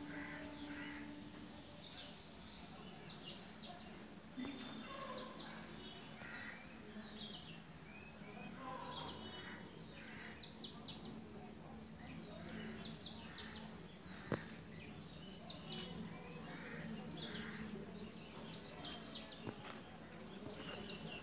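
Small birds chirping in short, repeated high calls over a faint steady hum, with one sharp click about two-thirds of the way through.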